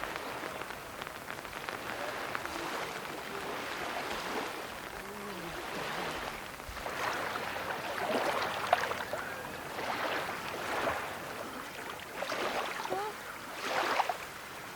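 Small lake waves washing onto the beach in surges every second or two, over a steady hiss of rain.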